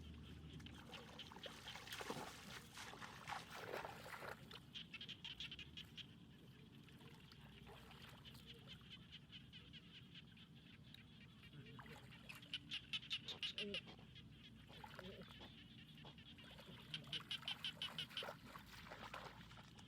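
Frogs calling: three bursts of rapid, evenly spaced pulsing calls, each about a second and a half long, the loudest about halfway through.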